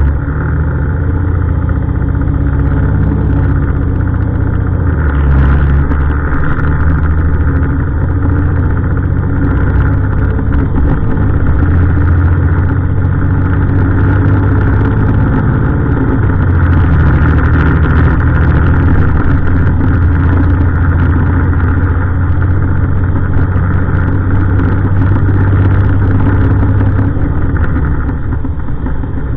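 Heavy diesel refuse truck engine running close by, its engine speed rising and falling several times.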